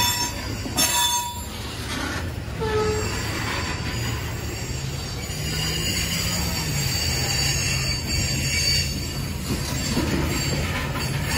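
Train rolling past with its wheels squealing against the rails in thin, high, wavering tones over a steady low rumble.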